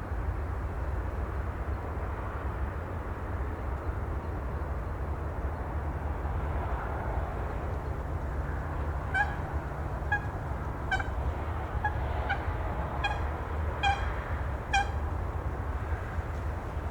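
Steady low rumble of wind and surf, with a bird giving a run of about seven short calls, roughly one a second, in the second half.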